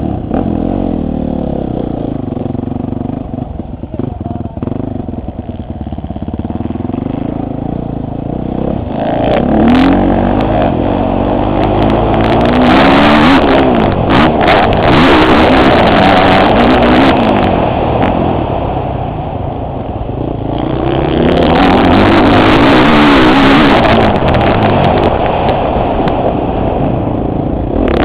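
Motocross bike engine heard on board from a helmet camera, running at lower revs at first, then revving hard from about nine seconds in, its pitch rising and falling again and again through the gears. Rushing wind noise over the microphone comes in during the fastest stretches.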